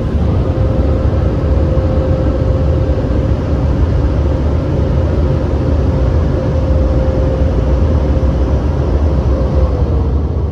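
Touchless car wash dryer blowers running, a steady loud roar with a held whine that starts to drop in pitch near the end as they wind down, heard from inside the car.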